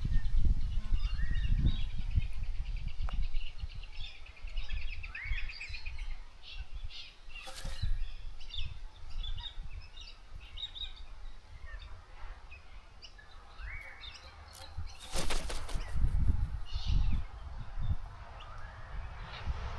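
Birds at a bird bath chirping and calling, with a rapid trill about six seconds in and a louder burst of wing flapping around fifteen seconds in.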